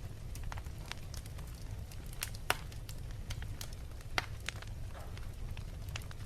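Wood fire crackling with irregular sharp pops, two louder ones about two and a half and four seconds in, over a steady low rumble.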